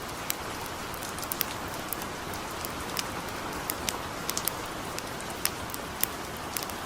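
Light rain falling steadily, mixed with the crackle of a campfire: an even hiss with many sharp, irregular pops and ticks over it.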